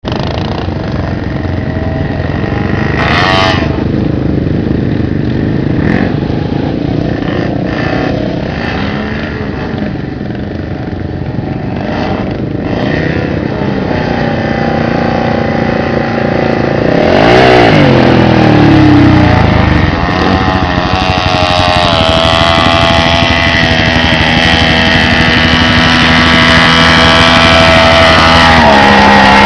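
Truck engine revving under load, its pitch swinging up and down sharply about seventeen seconds in, then held at high revs and getting louder toward the end.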